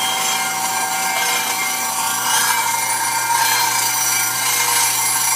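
Double-disk grinder's abrasive wheels rough-grinding stone flatstones: a steady, gritty grinding noise, strongest in the high range, with several steady whining tones over it from the running machine.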